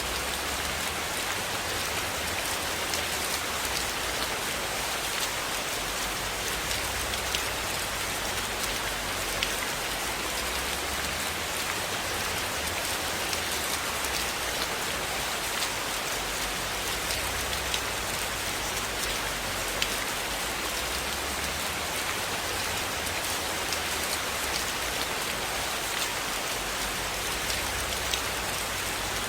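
Steady rain falling on a surface: a dense, even hiss with scattered sharp ticks, over a faint low rumble that swells and fades.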